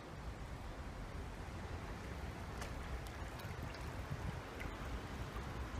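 Steady rush of river water with a few faint splashes.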